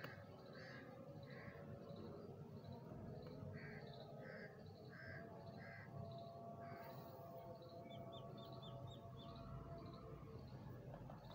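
Faint bird calls: one bird calling over and over, about three calls every two seconds, through the first half. Later a quick run of about six short, high chirps from a smaller bird.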